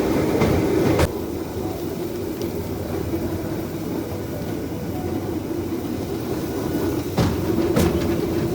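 Rail bike rolling along the track: a steady rumble of its wheels on the rails, with a sharp click about a second in and two more near the end.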